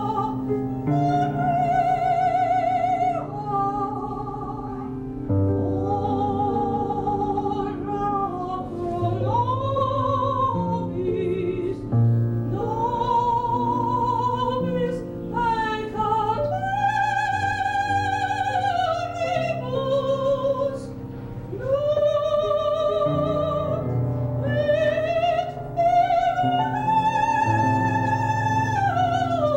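Operatic singing with strong vibrato, long held notes over a piano accompaniment.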